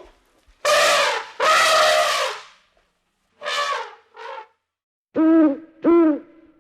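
Wild animal calls: two long, loud pitched calls, then two shorter, fainter ones, then two short hoots near the end.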